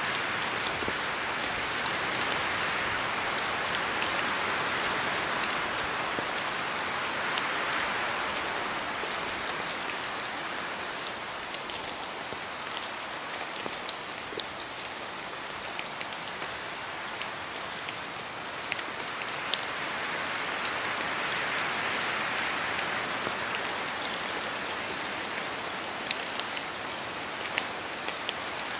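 Steady rain in a forest, many separate drops ticking sharply close by over a constant hiss. The hiss swells and eases twice, once near the start and again about two-thirds of the way through, like wind gusting through the trees.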